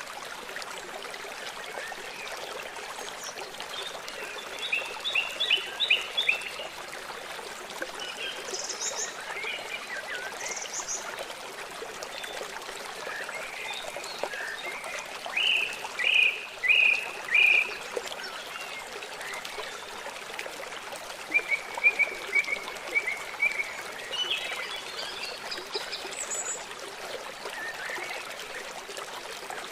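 River water flowing with a steady rush, overlaid by birds chirping in short quick runs of bright notes that come and go several times.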